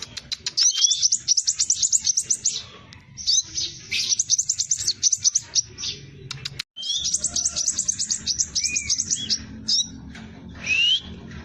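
Scarlet minivet singing in repeated bursts of very fast, high trilled notes, each burst lasting about two seconds. A few single rising slurred whistles fall between the bursts. The sound cuts out for an instant about two-thirds of the way through.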